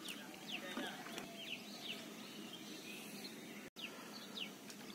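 Small birds chirping, many short quick notes that fall in pitch, repeated every second or so against faint outdoor background noise.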